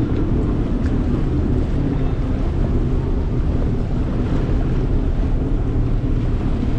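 Wind buffeting the microphone over the steady running of a small boat's motor on choppy water, a dense low rumble with no horn blasts.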